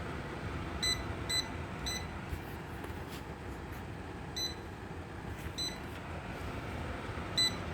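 Electric fan's control beeper giving short high beeps by itself, with no button or remote being pressed: three about half a second apart about a second in, then single beeps spaced out, the last one the loudest near the end. Under them runs the fan's steady running noise.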